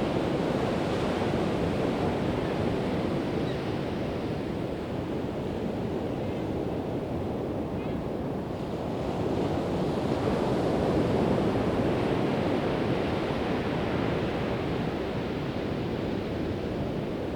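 Pacific Ocean surf breaking and washing up a sandy beach, a continuous rush that swells and eases slowly, with wind on the microphone.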